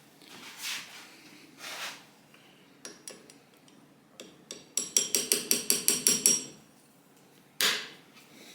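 A quick run of about a dozen light, ringing metal-on-metal taps lasting about a second and a half, like a small hammer tapping a part. A few soft hisses come before it, and a short louder hiss follows near the end.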